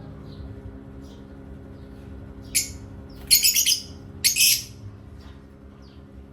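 Pet parrot calling: three loud, shrill calls about two and a half to four and a half seconds in, the second and third longer than the first, with faint short chirps around them.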